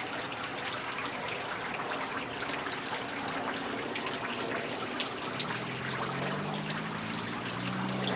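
Steady rain, with a dense scatter of small drop ticks over a constant hiss. A faint low hum comes in about five and a half seconds in.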